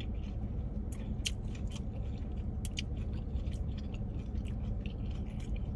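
A person chewing food with the mouth close to the microphone, small wet mouth clicks scattered throughout, over a steady low hum.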